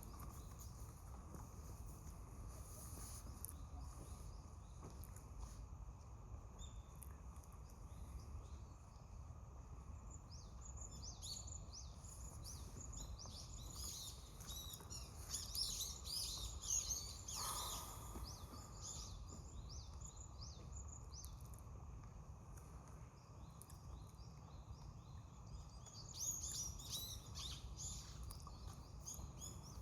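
Small birds chirping in bursts of short, high calls, busiest through the middle and again near the end, over a steady low outdoor rumble.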